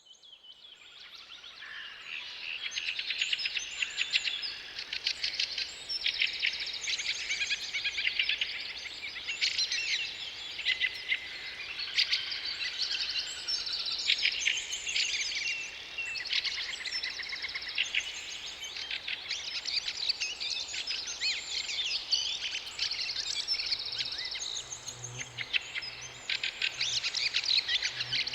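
A chorus of songbirds singing at once, dense overlapping chirps and trills, fading in over the first couple of seconds.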